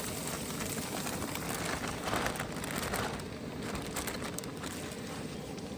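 Food sizzling and crackling in a pan over a campfire, a steady dense hiss that swells briefly about two seconds in.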